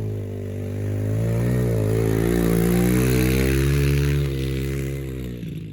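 Yamaha TT-R110 pit bike's small single-cylinder four-stroke engine held at high revs for a burnout, its note wavering up and down. It swells about a second in, then drops off after about four seconds and fades away.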